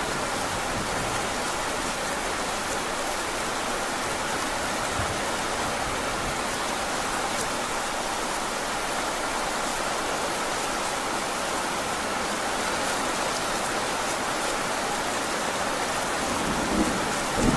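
Heavy rain falling steadily, a dense even hiss. Near the end a low rumble of thunder begins.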